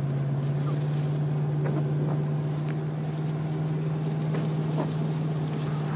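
A car driving, heard from inside the cabin: a steady low engine and road drone with a few faint ticks.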